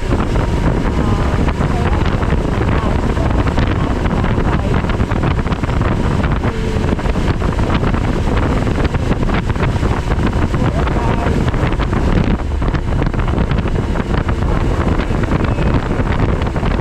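Steady wind rushing over the camera microphone on a moving motorcycle, loud and heavy in the low range, with the bike running underneath it.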